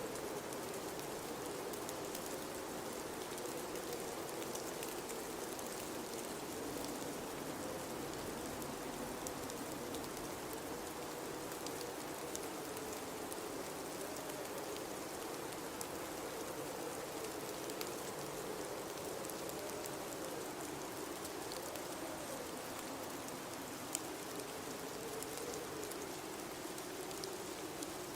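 Blizzard with high wind: a steady hiss of wind-driven snow, with a low wind whistle that wavers up and down in pitch throughout. Faint scattered ticks run through it, with one sharper tick near the end.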